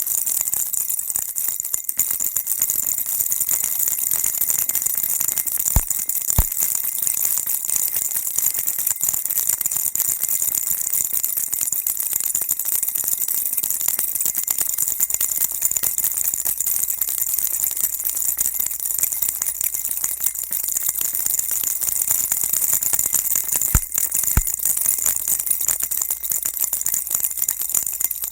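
Baby rattle shaken without pause: a dense, steady, high-pitched rattling. Twice, about 6 s and 24 s in, a pair of sharper clicks stands out.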